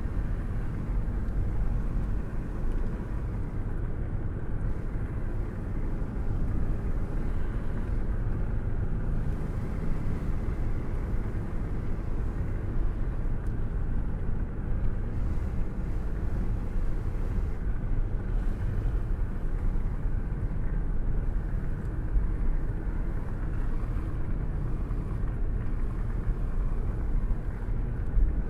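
Car cruising at a steady speed: an even, unbroken low rumble of engine and road noise.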